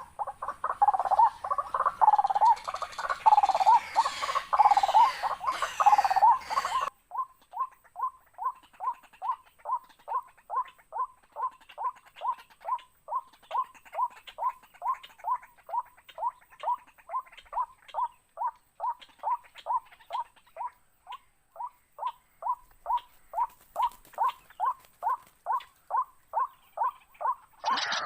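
Waterhen calls: a busy run of overlapping calls, then, about 7 s in, a sudden change to one short note repeated evenly about two to three times a second.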